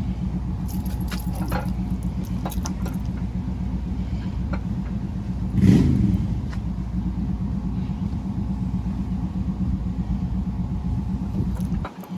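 A steady low mechanical drone, with light metallic clinks in the first few seconds and one brief louder sound falling in pitch about six seconds in.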